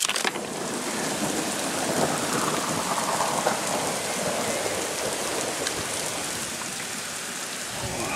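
Heavy rain pouring down in a dense, steady hiss. It comes in suddenly loud right at the start.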